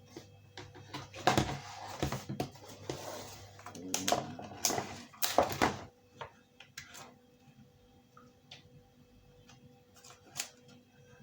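Hard plastic cowling being trimmed and handled on the bench: irregular sharp clicks, snaps and scrapes, busier in the first half and sparser after.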